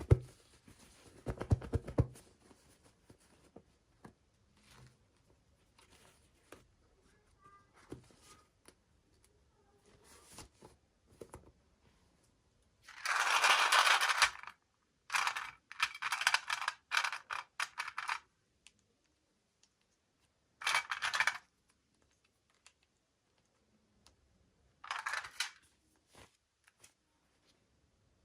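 Packaging being handled and opened by hand: small clicks and taps, then several crinkling, tearing bursts, the longest about halfway through, a quick cluster after it and two shorter ones near the end.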